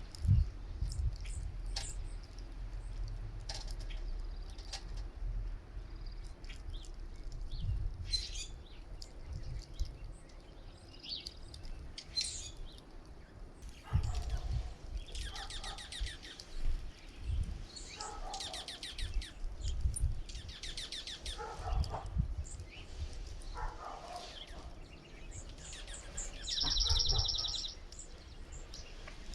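Small songbirds at a feeder chirping and calling, short high chirps mixed with several quick rattling call series, the most prominent one near the end, over irregular low buffeting.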